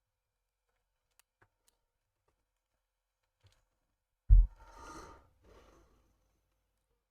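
A few faint clicks, then about four seconds in a sharp low thump followed by a short breathy sigh.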